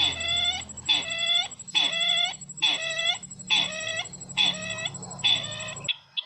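A bird's call repeated at an even pace, about seven nasal, pitched calls at just over one a second, played as a lure call for bird trapping. The series cuts off abruptly near the end, followed by a couple of short clipped notes.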